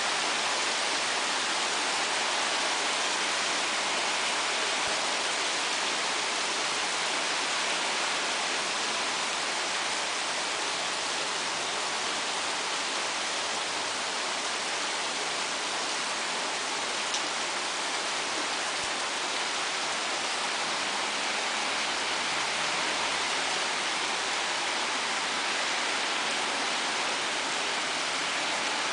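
Steady rain falling, an even hiss without letup, with one faint tick about two thirds of the way in.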